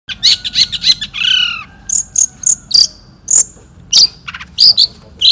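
Long-tailed shrike (cendet) singing loudly: a fast, broken run of sharp high chips and short whistled notes, with a few downward-slurring notes about a second in.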